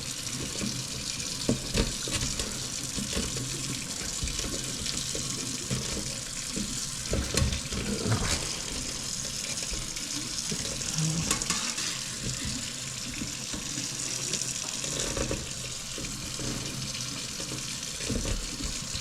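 Water running steadily from a tap into a kitchen sink, with a few brief knocks and scrapes from the air gap cleaning tool being worked through the clogged dishwasher drain line.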